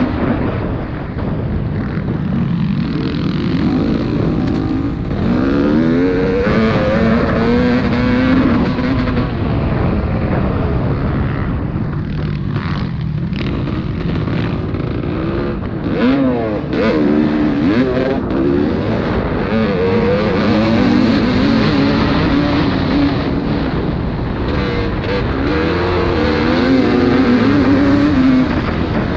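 Several motocross bikes racing, their engines revving up and down over and over as they accelerate, shift and back off around the track.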